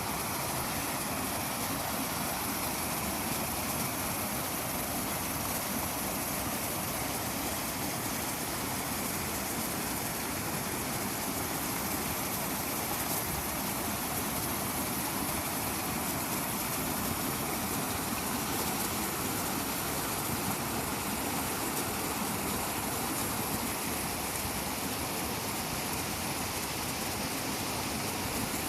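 Steady rushing of flowing water, an even, unbroken noise with no changes.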